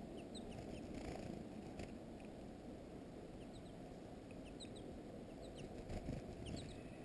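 Small songbirds giving scattered short, high chirps and call notes over a steady low background rumble.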